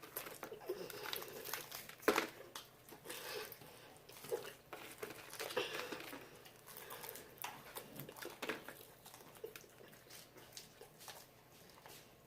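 Eating sounds: crispy fried chicken wings being bitten and chewed, giving scattered small crunches, crackles and mouth clicks, with a sharper crunch about two seconds in.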